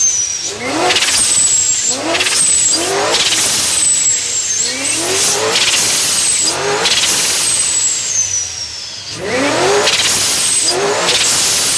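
Ford Mustang engine revved repeatedly in quick blips. Each rev climbs in pitch and drops off, with a high whine falling away after it. There is a short lull about nine seconds in before the revving starts again.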